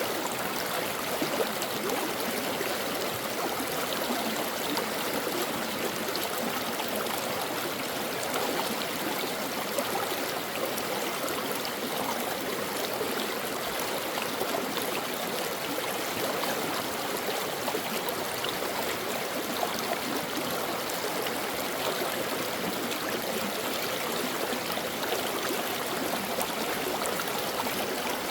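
Brook flowing steadily: a continuous rush of running water with small, quick splashes throughout.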